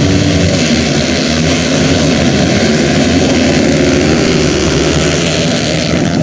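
Several motocross motorcycle engines running together in a loud, steady drone, their pitches overlapping and shifting slightly.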